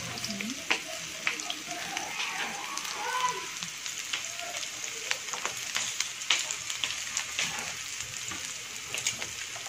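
Chopped shallots and garlic sizzling in hot oil in a wok, a steady hiss with many small irregular pops as they sauté.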